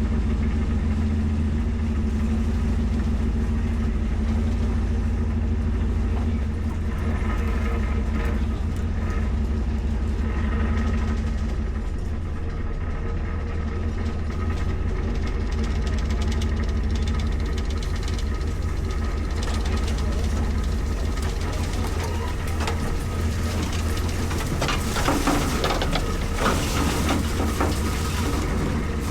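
A motor vehicle engine running steadily, with a few rattles and clatters near the end.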